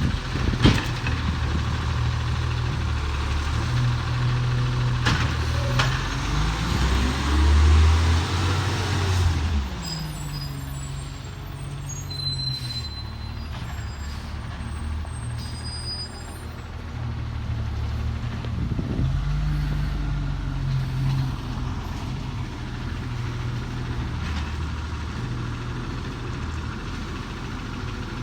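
Garbage truck engine running, revving up and back down about seven to nine seconds in, then settling to a lower, steadier run. There is a sharp knock about half a second in and another about five seconds in.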